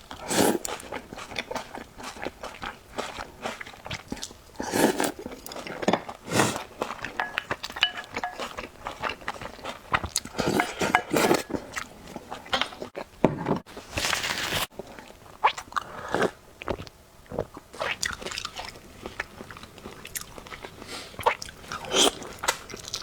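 A person biting and chewing food, with irregular crunches.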